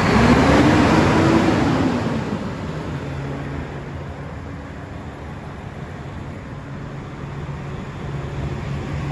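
Volvo FH 500 truck's 13-litre straight-six diesel revved once, climbing and falling back over about two seconds, then settling to a steady idle.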